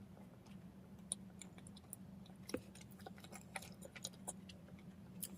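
A person quietly chewing bread, with small scattered mouth clicks and smacks over a low steady hum.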